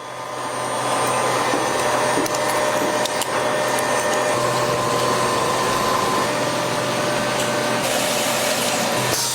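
Factory machinery running with a steady whir and a constant low hum. It fades in over the first second and drops away near the end.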